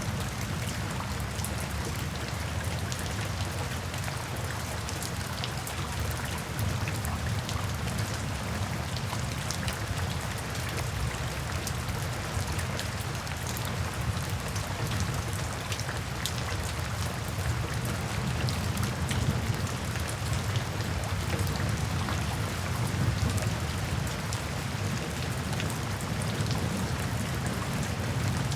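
Steady rain falling, with many individual drops pattering on a surface over a low, continuous rumble.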